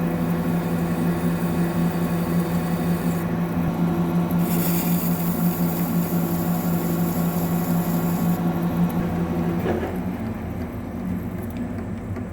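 Lathe turning a steel pin with a carbide insert: a steady machine hum, with a hiss of cutting added from about four to eight seconds in. About ten seconds in the sound drops and changes as the cut comes to an end.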